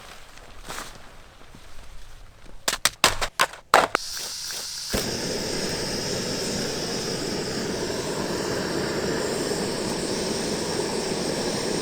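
Gas camp stove being lit: a quick run of sharp igniter clicks, then the burner catches about five seconds in and runs with a steady rushing hiss.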